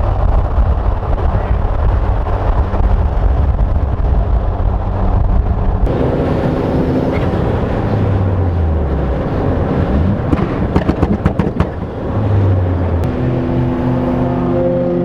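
Mazda Miata engines and road noise while driving, a heavy low rumble that changes abruptly about six seconds in. Later an engine note falls, a run of sharp crackles follows, and the engine note then rises briefly and settles into a steady tone.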